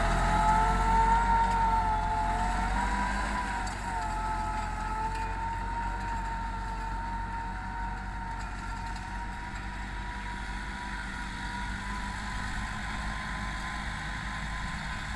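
Massey Ferguson 385 tractor's diesel engine running steadily with a whine above its low hum, growing gradually fainter.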